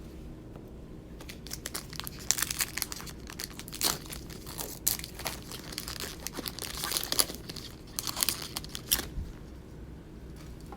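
Panini NBA Hoops trading card pack wrapper being torn open and crinkled by hand: a run of quick crackling rips and crumples, stopping about a second before the end.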